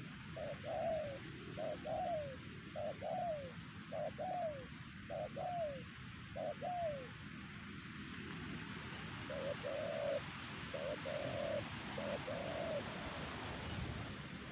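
Spotted dove cooing: six two-part coos about a second apart, each a short note followed by a longer falling one, then after a pause three flatter, steadier coos, over a steady hiss.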